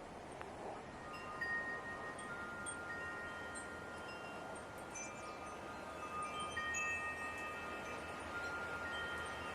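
Wind chimes ringing: several clear, sustained tones of different pitches struck one after another and overlapping, starting about a second in, over a steady hiss of light wind.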